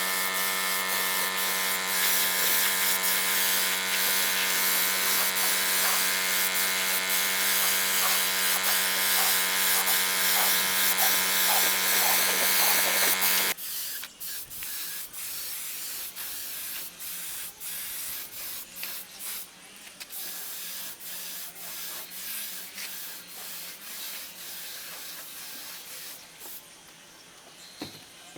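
A power tool's motor runs at a steady pitch with a hissing edge, then cuts off suddenly a little under halfway through. After that come quieter rubbing sounds and scattered light clicks, as of work by hand.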